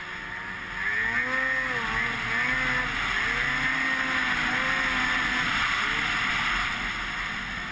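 Snowmobile engine running under way, its pitch rising and falling as the throttle is worked, with a steady rushing noise over it.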